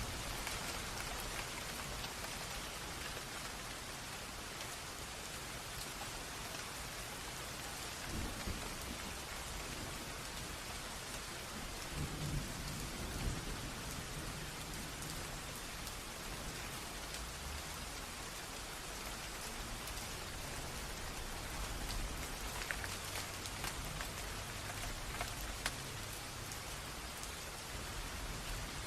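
Steady rain falling, mixed with a running stream, making an even hiss. A few brief low rumbles come about 8 and 12 seconds in.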